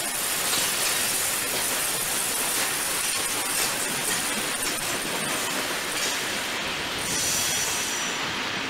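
Freight train led by a DB Class 103 electric locomotive rolling past with a string of flat wagons: a steady noise of wheels on rail with faint clinks.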